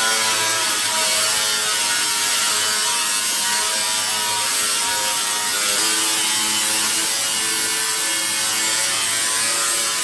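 A power tool running steadily, with a dense, high-pitched motor noise whose pitch shifts slightly about six seconds in.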